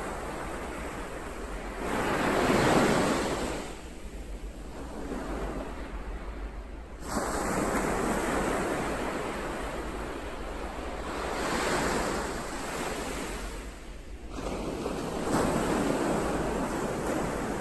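Ocean surf: waves breaking and washing in one after another, the sound swelling and falling away about four times, over a steady low rumble.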